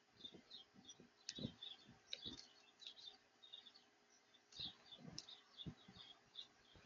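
Small backyard birds giving faint, quick, short chirps over and over, with soft low knocks scattered between them.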